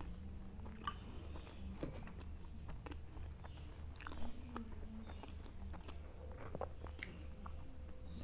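A person biting and chewing makki ki roti (maize flatbread) with sarson ka saag (mustard greens), close to a clip-on microphone. Many small scattered mouth clicks sit over a low steady hum.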